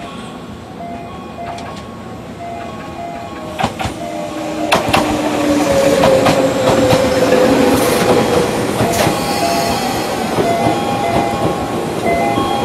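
Tobu 200 series limited express electric train running in and braking. Its wheels clack over the rail joints as it passes, and a tone falls in pitch as it slows. A repeating two-tone electronic chime sounds throughout.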